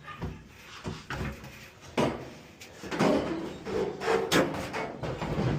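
Clunks and scraping of a Samsung clothes dryer's drum being handled and set back into the cabinet, with several separate knocks spread through.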